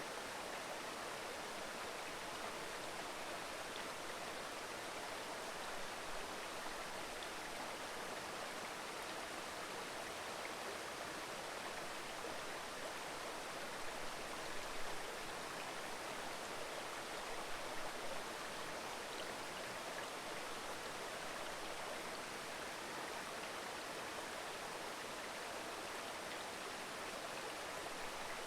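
Mountain river babbling over rocks: a steady rush of flowing water, swelling slightly a couple of times near the middle.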